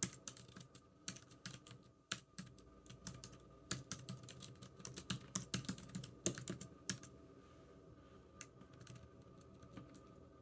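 Typing on a computer keyboard: irregular runs of key clicks, busy for the first seven seconds or so, then only a few scattered keystrokes near the end.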